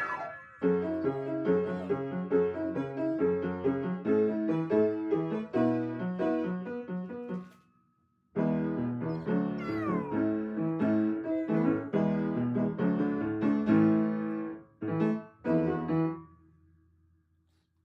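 Piano playing, breaking off for a moment about eight seconds in and dying away near the end, with a dog giving high, gliding howls along with it near the start and again around ten seconds in.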